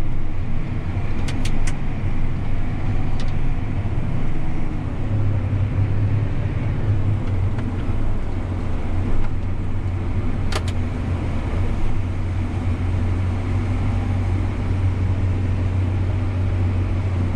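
Farm tractor engine running steadily, heard from inside the cab while driving, with a low drone that grows stronger about five seconds in. A few short clicks sound over it.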